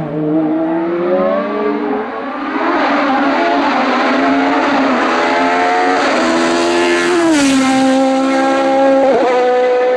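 Hillclimb race car engine at high revs, accelerating hard with its pitch climbing and changing through the gears. About seven seconds in, the pitch drops sharply, then holds steady.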